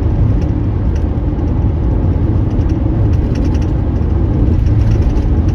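Car driving on a dusty dirt road: a steady low rumble of tyres and engine, with light ticks now and then.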